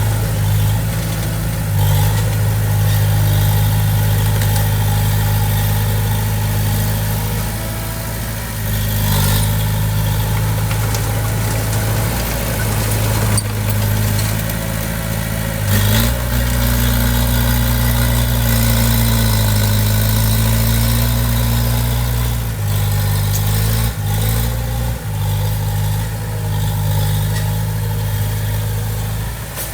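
Diesel engine of heavy construction machinery running steadily, its pitch stepping up about sixteen seconds in and shifting again a few seconds later, with a few short knocks.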